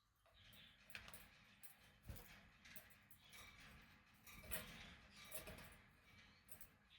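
Faint, irregular clicking and ticking from budgerigars, the small sounds of beaks and feet, with only a few faint chirps.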